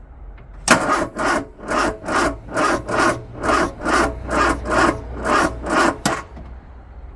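Vauxhall Corsa D's starter motor cranking the engine slowly and laboriously, about two rasping strokes a second for some five seconds, and the engine does not catch. The starter is very tight and won't spin freely: a failing starter motor, which smokes from the effort.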